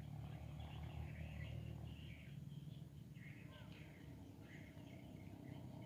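Faint birds chirping and calling in short scattered bursts over a low, steady rumble.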